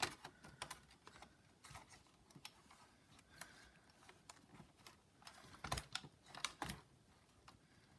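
Faint scattered clicks and light taps: a precision screwdriver driving a small screw into a laptop's case, with the plastic and metal parts being handled.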